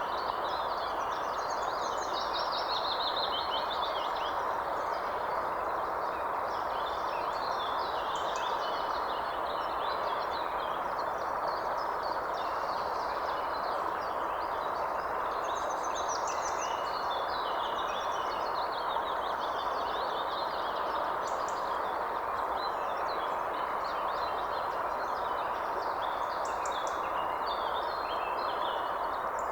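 Many small birds chirping and calling continuously over a steady, even rushing noise.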